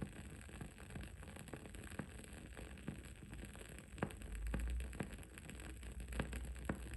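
Wood wick candle crackling: small, sharp, irregular pops over a steady low background rumble that gets louder about four seconds in.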